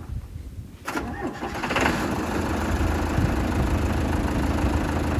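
Diesel semi-truck engine cranking over and catching about a second in, then settling into a steady idle.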